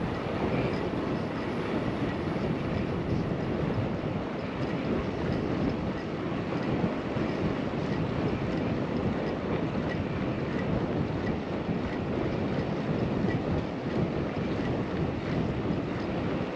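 Steady rush of wind on the microphone mixed with tyre and road noise from a bicycle riding at speed, with faint small ticks recurring through it.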